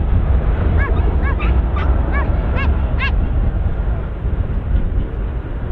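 Birds calling: a run of short calls, each rising then falling in pitch, about seven in the first three seconds, over a steady low rumble.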